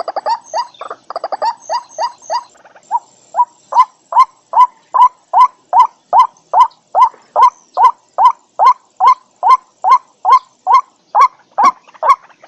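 White-breasted waterhen calling: a long run of short, evenly repeated notes, about two to three a second. The first couple of seconds are more ragged, with quicker, overlapping notes and some higher chatter.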